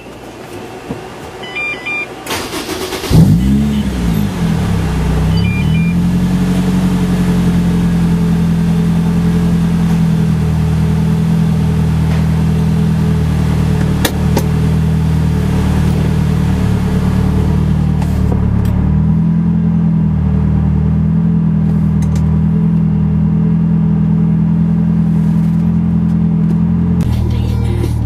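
Supercharged Honda S2000 four-cylinder being cranked and started about three seconds in, flaring up on catching, then settling into a steady idle through its dual exhaust. Near the end the idle steps down to a lower pitch. A couple of short beeps sound early on.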